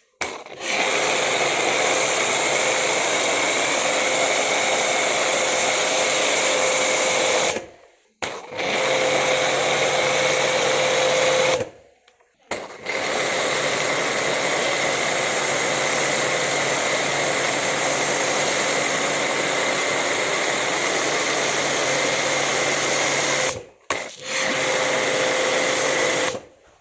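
JPT IDR 220 pressure washer (2400 W) running with the gun spraying: a loud, steady motor-and-pump whir under the hiss of the water jet. It stops dead three times for about a second as the trigger is let go, then starts again, and shuts off just before the end.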